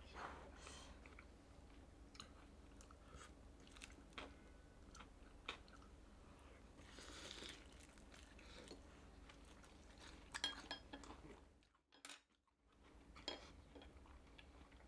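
Quiet chewing of food with scattered small crunches and clicks.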